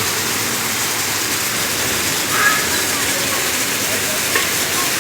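Heavy monsoon rain pouring steadily, a dense even hiss of falling and running water.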